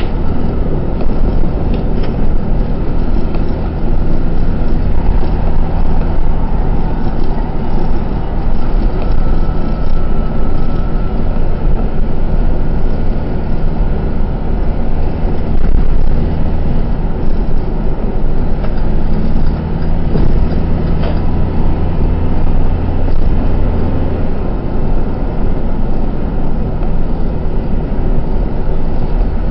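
Truck engine and road noise heard inside the cab: a steady, loud low hum with no break.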